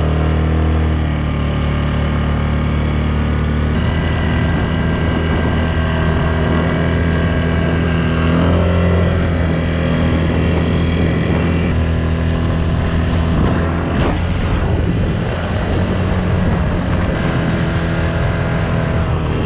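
Quad bike engine running steadily under way, its note changing abruptly about one and four seconds in.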